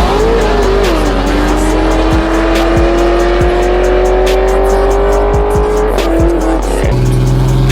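A turbocharged race truck's engine pulling hard through a gear on a drag-strip pass, its pitch climbing steadily for several seconds before dropping near the end, under background music with a steady beat.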